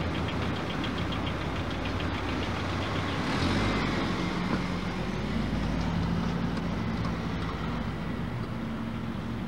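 A car's engine running as it pulls away towing a loaded utility trailer, over steady street traffic noise. The noise swells about three to four seconds in.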